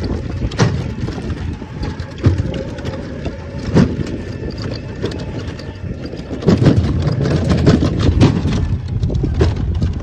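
Electric vehicle jolting over a rough dirt track: a steady low rumble with irregular knocks and rattles, which come thicker and louder from about six and a half seconds in.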